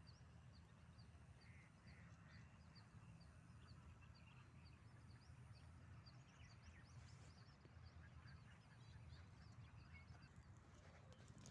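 Faint outdoor ambience: a small bird calling over and over in short high chirps, about two a second, with a busier spell of chirping around the middle, over a steady low rumble.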